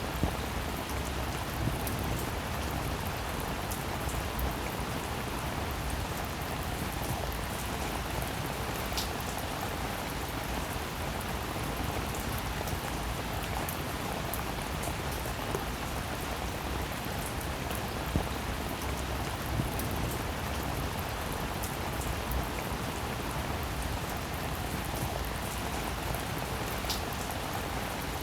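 Steady rain falling, an even hiss with a few sharper drop taps scattered through it.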